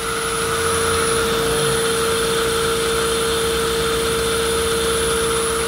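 A Mazda 3's 2.0-litre petrol engine idling from cold, a steady running noise with a constant whine over it.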